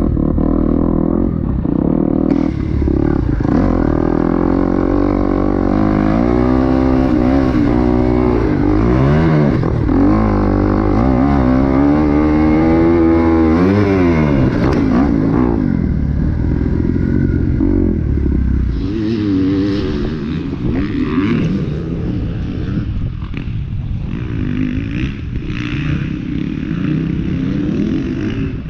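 2023 Kawasaki KX250X's four-stroke single-cylinder engine under riding load, its pitch climbing and falling again and again as the throttle is opened and closed. In the last third it turns rougher and noisier, with less of a clear engine note.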